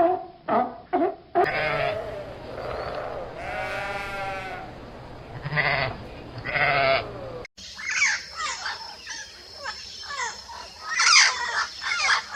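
A goat bleating several times, one bleat long and quavering. It cuts off suddenly and is followed by a chorus of quick, high, downward-sliding chirps.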